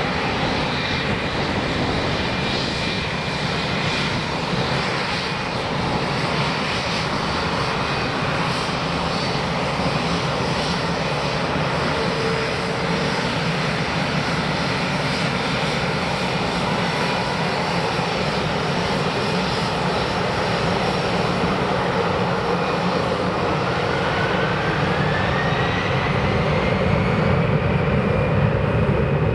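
Airliner engines running steadily, with a whine rising in pitch about 24 seconds in as the sound grows louder toward the end.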